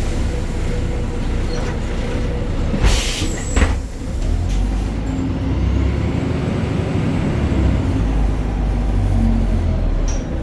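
BredaMenarini Avancity Plus city bus with its Deutz diesel engine running with a steady low rumble. Two short bursts of air hiss come about three seconds in, roughly half a second apart.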